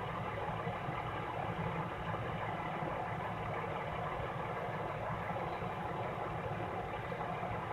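A truck engine idling steadily, an even low drone with no change in speed.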